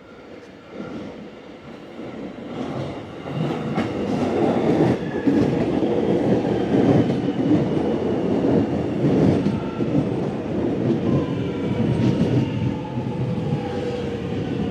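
Suburban electric train moving through the station platform: its rumble of wheels on rail grows louder over the first few seconds, then runs steadily, with faint high whining tones above it.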